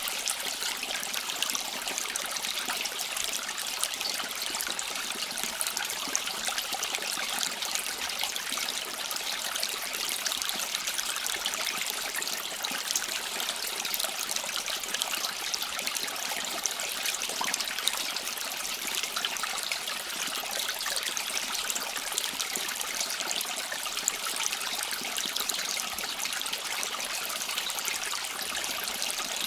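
Water running in a small stream: a steady, unbroken trickle and babble with a fine crackle in it.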